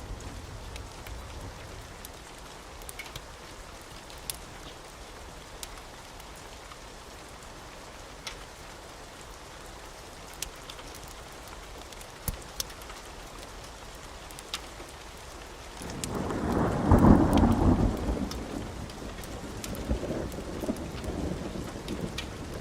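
Wood fire crackling: a steady hiss with scattered sharp pops. About two-thirds of the way through, a deep rumble swells up, peaks, and fades away slowly over several seconds.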